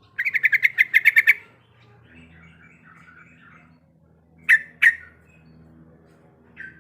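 Yellow-vented bulbul (trucuk) calling: a fast rattling run of about a dozen sharp notes, then soft warbling, then two loud sharp chirps close together and a shorter one near the end.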